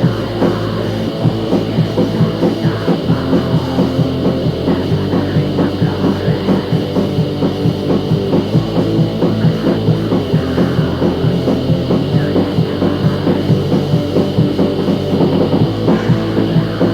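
Rock song with a drum kit keeping a steady, driving beat under dense, loud instrumentation.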